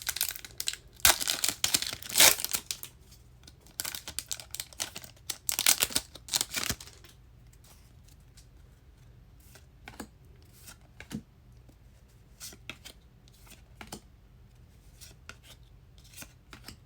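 A trading-card pack wrapper being torn open and crinkled in loud bursts for about seven seconds. After that come quieter, scattered clicks and flicks of cards being handled and sorted.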